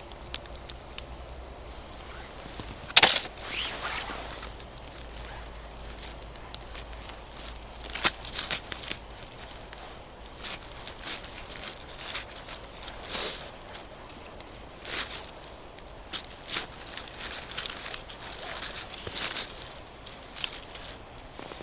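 Wood campfire crackling, with irregular sharp pops and snaps, the loudest about three seconds in and again about eight seconds in.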